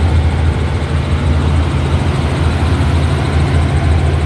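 Helicopter engine and rotor running with a steady low drone under a constant rush of noise.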